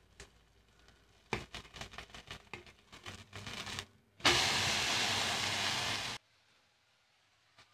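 A metal spatula scraping and clicking against an iron frying pan as it works under a pumpkin-flower fritter, then the flipped fritter hits the hot oil with a loud sizzle that lasts about two seconds and cuts off suddenly.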